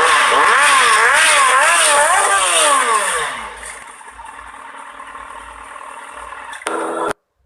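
Superbike engine revved up and down several times in quick succession. The revs then fall away and it runs quieter and steady. A short louder burst near the end cuts off abruptly.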